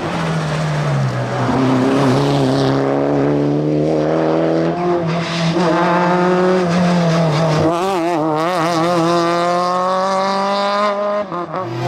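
Rally car engine revving hard and accelerating, its pitch climbing steadily and dropping back twice at upshifts as it pulls through the gears.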